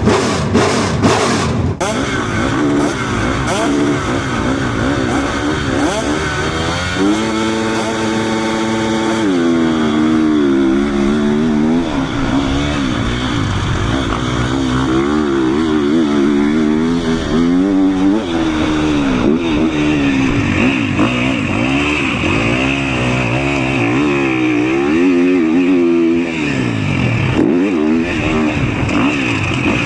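Motocross bike engine revving up and down again and again as the throttle is worked, heard close from a camera on the rider, with the pitch held steady for about two seconds a quarter of the way in. A few sharp knocks come in the first two seconds.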